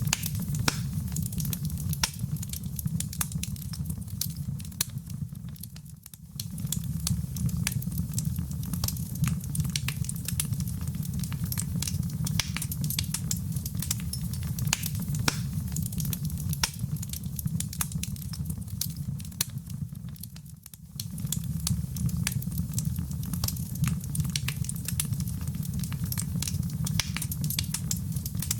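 Wood fire in a fireplace crackling steadily, with frequent sharp pops over a low rumble. The sound dips briefly twice, about six seconds in and again about twenty-one seconds in.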